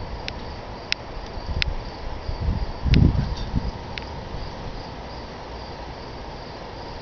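Crickets chirping steadily at night, with a few light sharp ticks and a brief low rumble about three seconds in.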